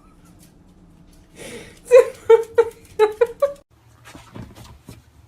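A pet animal giving a quick run of about seven short, high calls in two seconds, then stopping.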